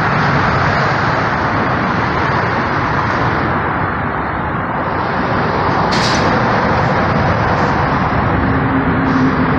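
Steady interstate traffic noise from vehicles and their engines, with a brief sharp sound about six seconds in and a low hum near the end.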